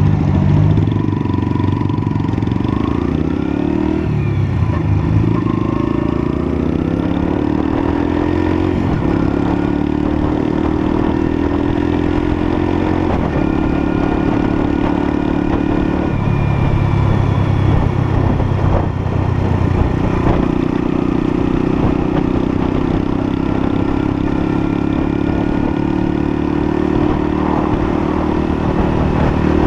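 Lexmoto LSM 125's 125cc single-cylinder engine running under way, its note rising and falling several times as the bike speeds up, changes gear and slows, with wind and road noise.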